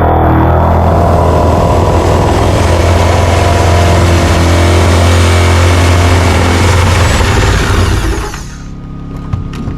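A loud, steady engine-like running sound with a strong low hum. It drops away suddenly near the end.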